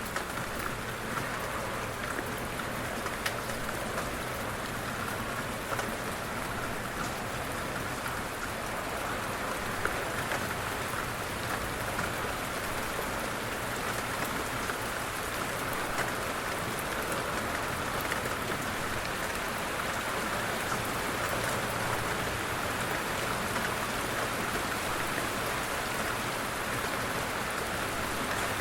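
Steady light rain falling, a continuous patter with individual drops ticking now and then.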